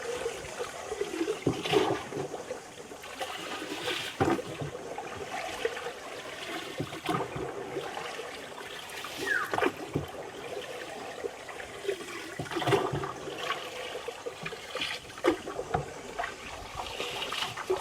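Water trickling and splashing around a small rowing boat, with a stronger splash every two to three seconds.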